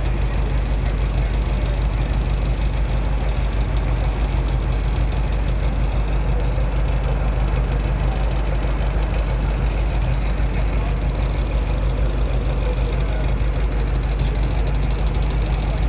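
Boat engine running steadily: a constant low drone.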